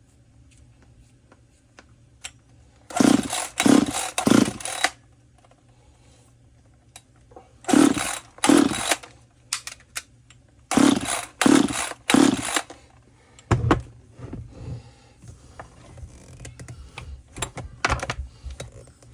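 Echo CS-3000 two-stroke chainsaw being pull-started three times, each pull a second or two of the starter rope spinning the engine over with a few strong strokes. It never fires or catches: the saw won't hit. Lighter knocks and clicks follow near the end.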